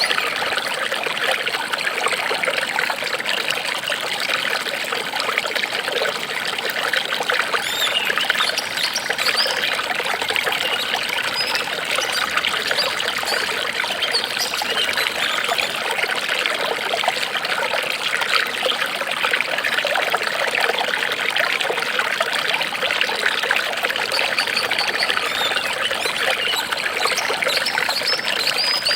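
Water trickling and splashing steadily, like a small stream running over stones.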